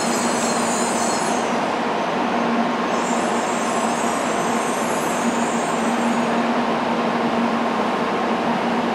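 N700A series Shinkansen train running slowly along the platform as it arrives to stop: a steady rumble of wheels on rail with a low hum. A high hiss over it stops about a second and a half in and comes back for a few seconds from about three seconds in.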